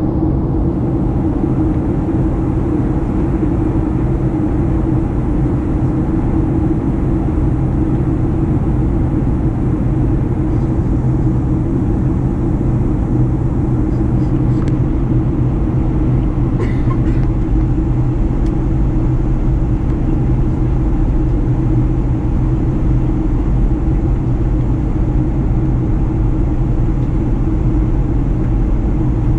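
Cabin noise of a Boeing 737-900ER on final approach: its CFM56 jet engines and airflow make a steady, loud low rumble with a constant hum.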